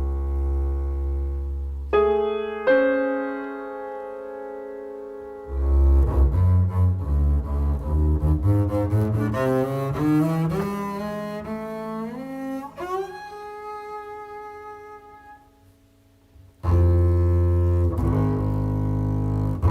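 Duet for bowed double bass and piano. A low sustained note and a held chord give way to a long rising run of notes that fades almost to silence, before loud low notes come back in near the end.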